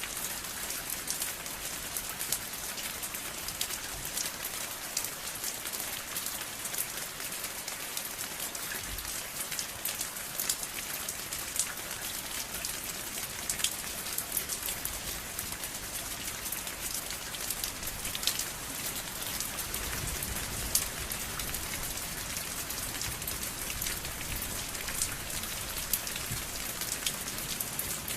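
Steady rain falling, with a continuous hiss and many close, sharp drop ticks pattering on a surface.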